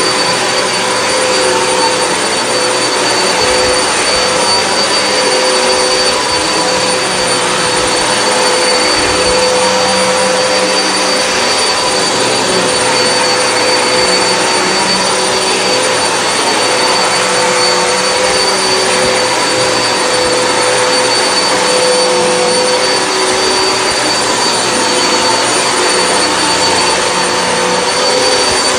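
Hoover WindTunnel High Capacity upright vacuum running on carpet: a steady, loud rush of air with a high motor whine over it, and a lower hum that comes and goes every second or two.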